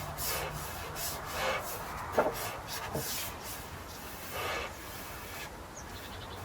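Brush stroking oil onto European larch planks: irregular bristle swishes across the wood, with a sharp knock about two seconds in.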